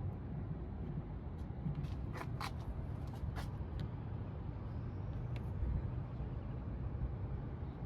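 Steady low rumble of a motor vehicle, with a few short sharp clicks between about one and a half and three and a half seconds in, and another near five and a half seconds.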